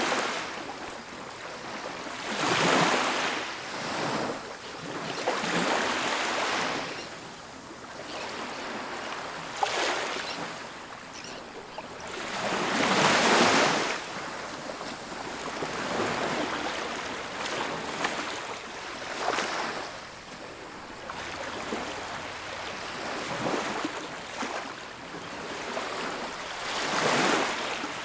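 Ocean waves breaking and washing onto a beach, the surf swelling and falling every few seconds, with the loudest break about halfway through.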